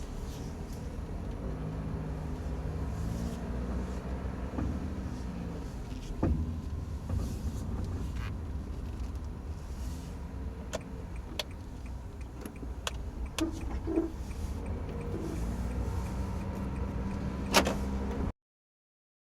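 Steady road and cabin rumble of a first-generation Honda N-BOX Custom on the move, with irregular sharp knocks from the suspension. The knocking is the abnormal suspension noise that was traced to worn shock absorbers.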